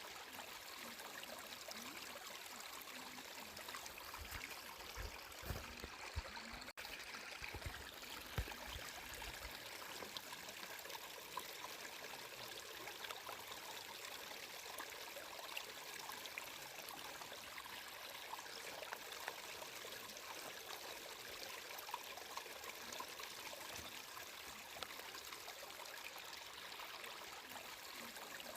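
Water flowing steadily in a stream, an even rushing trickle. A few low bumps come between about four and nine seconds in, with a momentary dropout near seven seconds.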